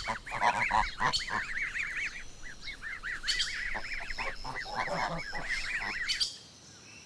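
Geese honking, with rapid, repeated higher calls over lower honks. The calls stop about six seconds in.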